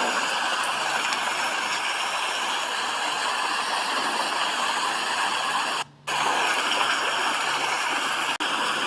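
Steady rain, a dense even hiss, cut by a brief dropout about six seconds in and a second, very short one near the end.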